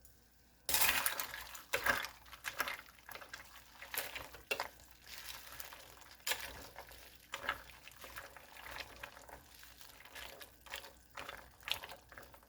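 Dry farfalle pasta being added to chicken soup in a crockpot and stirred in: a burst of rattling and sloshing starting about a second in, then irregular clinks and liquid stirring sounds.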